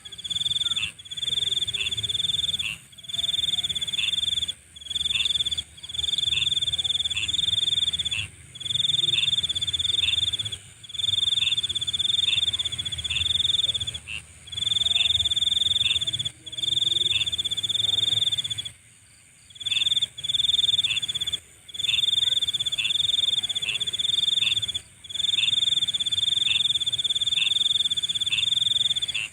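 Night chorus of calling insects: a high-pitched trill repeating in bursts of a second or two with short breaks, over a steady, higher, continuous buzz.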